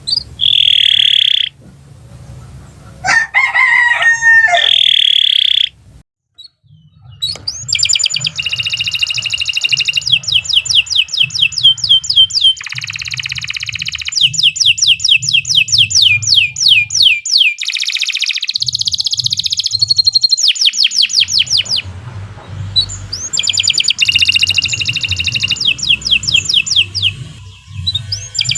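Domestic canary singing long, fast phrases of rapid repeated high trill notes, broken by brief pauses. In the first few seconds there are two steady high whistled notes, with a lower call between them about three seconds in that falls in pitch.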